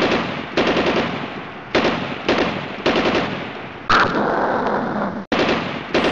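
A series of sudden loud bangs, one every half second to a second, each dying away before the next.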